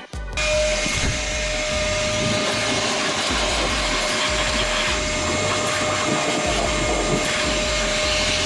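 Steady motor-driven machine running with a constant whine over a loud hiss, starting just after the opening.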